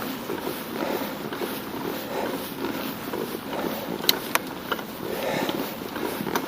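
A cyclist breathing hard while riding, with wind and road noise on the camera microphone; two sharp clicks about four seconds in and another near the end.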